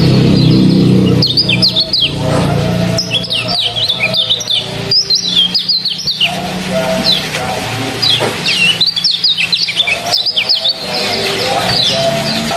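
Small songbird giving rapid 'ciak ciak' chirps, quick downward-sweeping notes in clusters, over trickling water and a low steady drone. This is a lure call played to get a kecial to answer.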